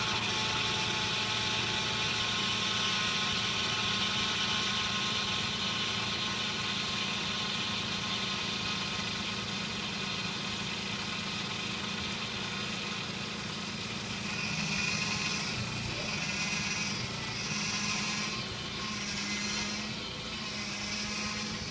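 A car's power steering pump whines and groans with the engine running, a sign that the power steering fluid is low after leaking. The steady whine holds over the engine hum. About two-thirds of the way through, a higher whine starts to swell and fade, about once a second, five times.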